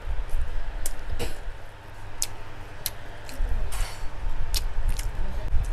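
Close-up chewing of a mouthful of rice and pork, with a scattering of sharp mouth clicks and smacks over a low rumble.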